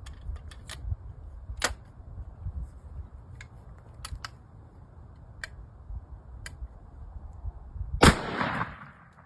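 Hatfield 20-gauge shotgun fired once, a single loud blast about eight seconds in with a short echoing tail. Before it come a few faint sharp clicks and taps over a low rumble.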